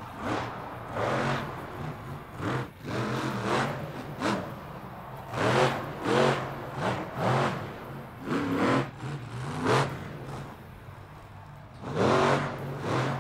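Monster truck's supercharged V8 revving in repeated hard throttle bursts, each rising and falling in pitch, about a dozen in all, with the loudest near the middle and again near the end.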